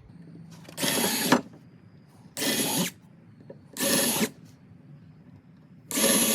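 Power drill running in four short bursts of about half a second each, a second or more apart.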